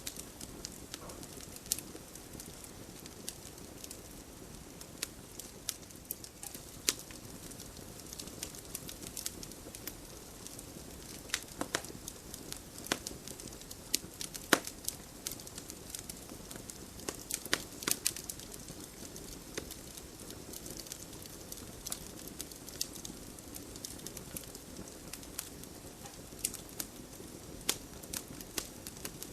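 Wood campfire crackling: irregular sharp pops and snaps, a few much louder than the rest, over a steady low hiss of burning.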